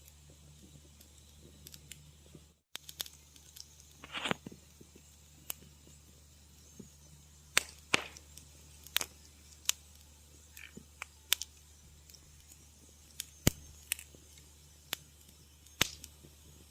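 Wood fire crackling in a fireplace: irregular sharp pops and snaps, about a dozen of them loud, over a faint steady low background. The sound cuts out completely for a moment about two and a half seconds in.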